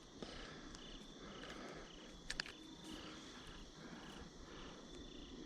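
Faint chirping of crickets, a steady even pulse of about three chirps a second, with a couple of soft clicks.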